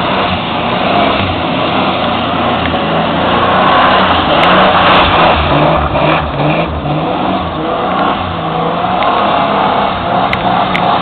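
Holden VP Commodore's 3.8-litre V6 revving up and down over and over as the car spins donuts.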